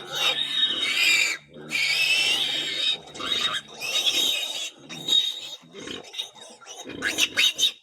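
Pigs squealing: a run of long, high, wavering squeals of about a second each, giving way to shorter, quicker squeals near the end.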